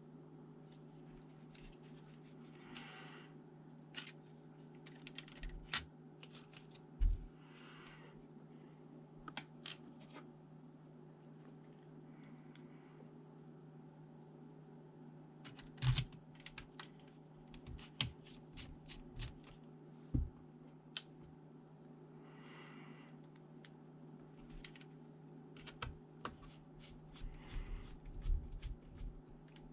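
Small clicks and taps of laptop parts and tools being handled, with a few short scratchy rustles, over a steady low electrical hum.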